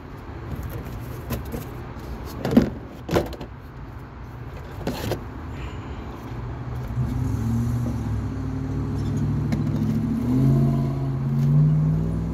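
A few sharp knocks and clatters, then a car engine running, coming in about seven seconds in and getting louder towards the end.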